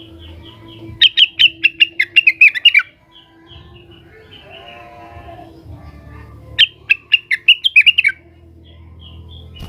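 Blue-winged leafbird (cucak wilis) singing in an agitated, challenging way. Soft repeated notes at first, then two loud bursts of fast, sharp, falling notes, one about a second in and one past the middle.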